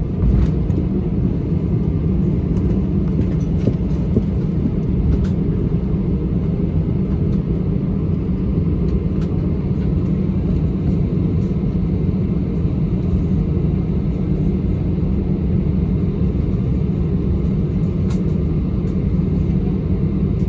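Steady low rumble of engine and airflow noise inside an Airbus A320-200 passenger cabin, even and unchanging throughout, with a few faint clicks.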